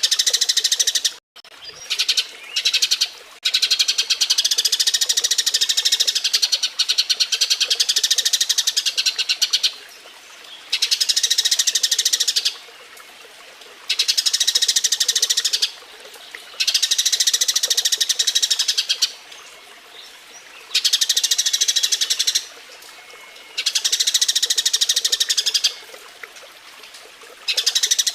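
Eurasian tree sparrows giving their breeding chatter: fast, high runs of chirps in bouts of two to six seconds, with short pauses between bouts.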